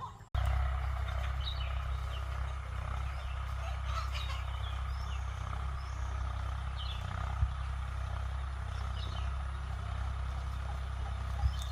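A steady low rumble with scattered short, high chirps of birds over it, and a couple of brief thumps.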